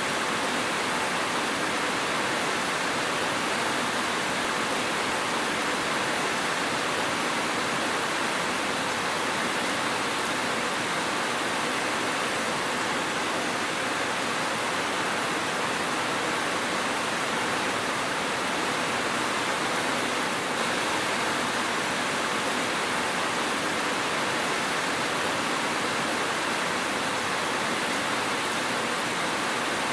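Steady heavy rain falling, an even hiss with no drops or thunder standing out.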